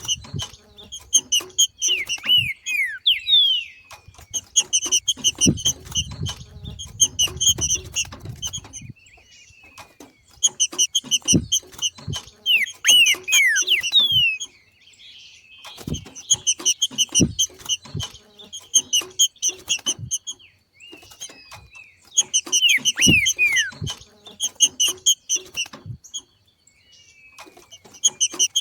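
Trinca-ferro (green-winged saltator) giving its rapid chattering 'macheado' call in repeated bursts of about two seconds, with a few short downward-sliding whistled notes, against occasional low knocks. The macheado is the breeding-condition call used to excite other trinca-ferros into singing.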